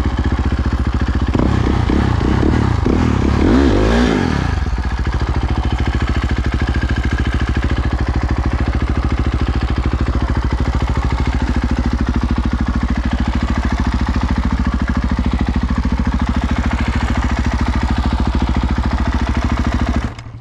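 Dirt bike engine revving up and down several times for the first few seconds, then running steadily at low revs.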